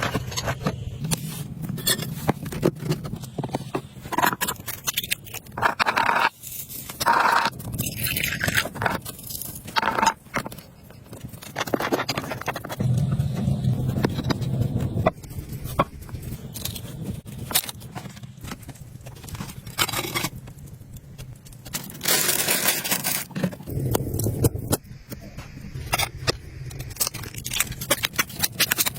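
Irregular scraping and crackling, broken by many sharp clicks and knocks, as materials are worked by hand.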